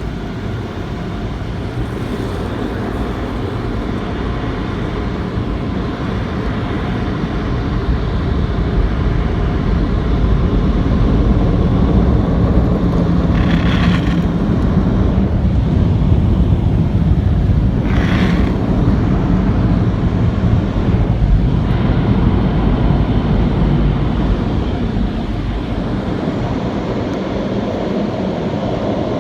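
Automatic car wash machinery running: a loud, steady rumble and rush that swells toward the middle and eases off near the end, with two short bursts of higher hiss about fourteen and eighteen seconds in.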